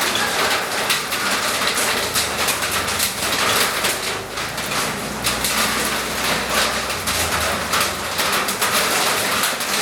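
Steady rain falling, made up of many small, sharp drop hits.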